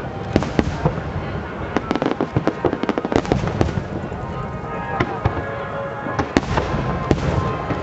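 Aerial fireworks going off in a rapid barrage of sharp bangs and crackling, densest a couple of seconds in, then more spaced-out reports.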